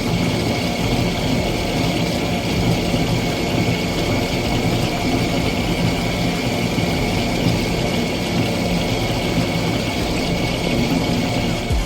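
Car running steadily: a low engine hum under a constant rush of noise.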